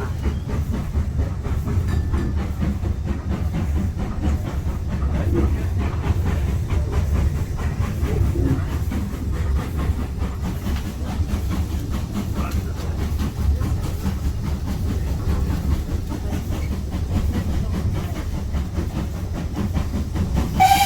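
Steam-hauled heritage passenger train running along the line: a steady low rumble of the carriage with wheels on the rails. A brief high tone sounds right at the end.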